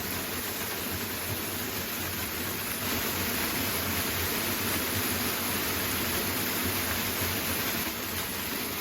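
Waterfall rushing: a steady, even roar of falling water, swelling a little in the middle.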